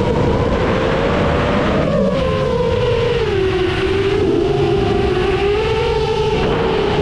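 FPV quadcopter's brushless motors and propellers whining steadily, the pitch dipping about three seconds in and rising again near the end as the throttle changes, over a rush of noise.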